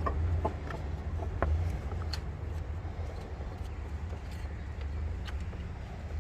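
Car engine running at a steady idle, a continuous low rumble, with scattered light clicks and ticks over it.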